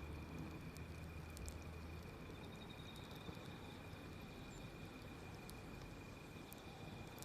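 Wood fire crackling faintly, with scattered sharp pops and ticks over a soft steady hiss, and a steady high-pitched tone underneath.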